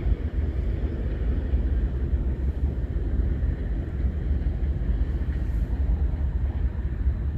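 Steady low rumble of a distant diesel freight train, with wind buffeting the microphone.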